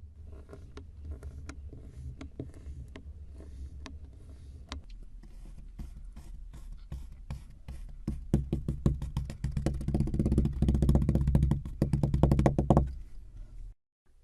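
A run of sharp knocks or taps, sparse at first, then coming faster and louder into a rapid rattling train, before stopping abruptly near the end.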